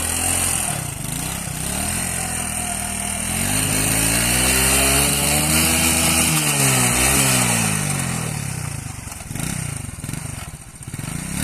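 Small motorcycle engine running hard, its pitch climbing over a few seconds to a peak around the middle, dipping sharply once, then falling away, with a short lull and a fresh rise near the end.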